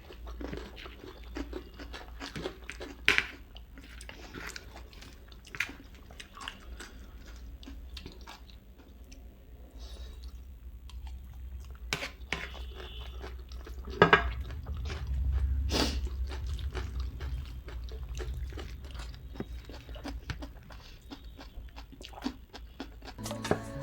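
Close-up chewing and crunching of chatpate, a spicy puffed-rice snack, as it is eaten: many small crisp crunches, with a few sharper ones now and then.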